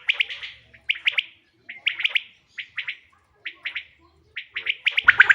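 Common quail (bater) calling: short phrases of about three quick, sharp whistled notes, repeated about once a second, used as a lure call for quail hunting. The calls come faster and louder near the end.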